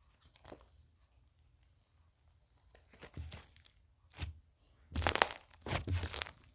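Slime being handled, squeezed and pressed by hand, giving crisp crackling and crunching pops. It is faint and sparse at first, then turns into a loud, dense run of crackles about five seconds in.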